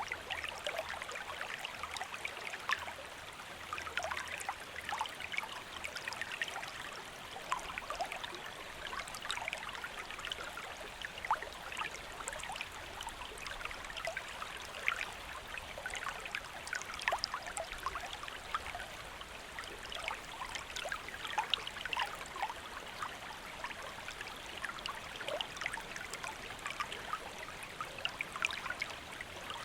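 A gently flowing stream: a steady rush of water dotted throughout with many small splashes and gurgles.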